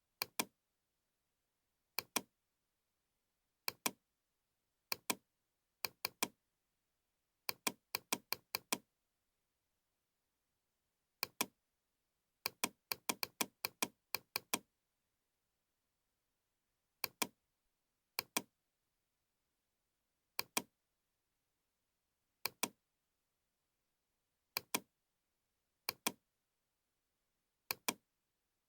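Computer mouse clicking at irregular intervals, mostly in quick pairs, with dead silence between the clicks.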